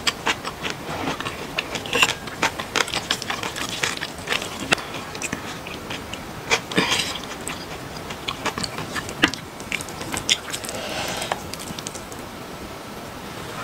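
Close-miked mouth sounds of a person chewing food, a fast, irregular string of wet clicks and crunches, with a short swishing patch about ten seconds in.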